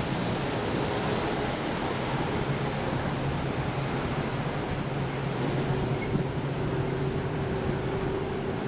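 A motor yacht's engine running steadily with a low hum, under a constant rush of wind and water noise.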